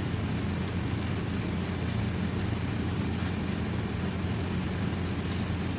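Steady low engine drone, even throughout with no change in pitch.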